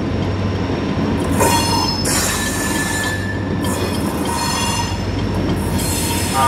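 Freight cars rolling slowly during switching, their wheels squealing in several high-pitched bursts over the steady rumble of a diesel locomotive.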